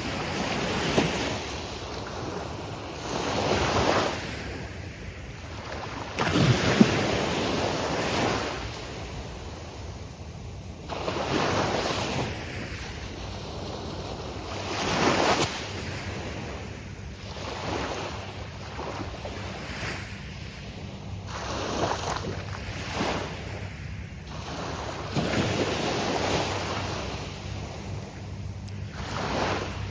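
Gulf of Mexico surf breaking on the beach: waves crash in repeated surges every few seconds, each swelling and then washing away.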